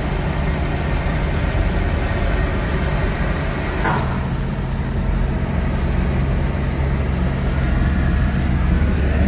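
Truck driving steadily on the road: continuous engine and road noise, with a brief sharper sound about four seconds in.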